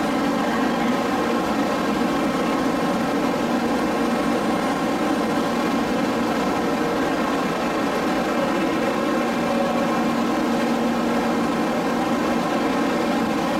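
Stopped N700-series Shinkansen train humming at the platform: its onboard equipment gives a steady chord of several tones over an even hiss.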